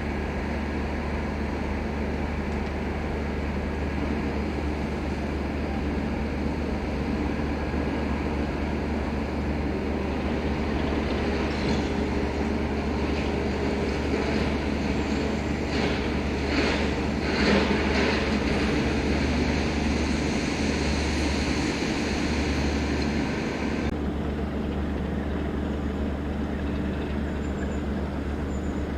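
Class 33 diesel-electric locomotive's Sulzer eight-cylinder engine running steadily with a low hum, and a brief cluster of knocks and clatter about two-thirds of the way through.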